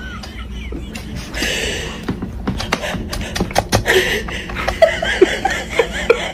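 A kitten eating dry kibble from a plastic bowl, with many sharp crunches and clatters of pellets against the bowl. Soft human chuckling comes through now and then.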